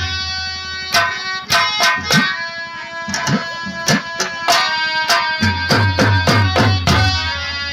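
Instrumental Nautanki nagma with a held melody line and a busy run of hand-drum strokes, some of them sliding in pitch.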